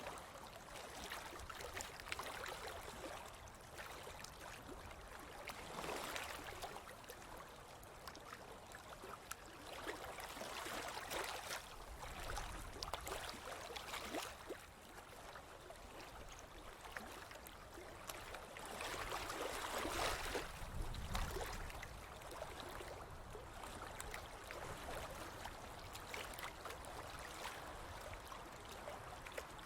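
Ocean waves breaking and washing up a beach, the surf swelling and easing every few seconds, loudest about two-thirds of the way through.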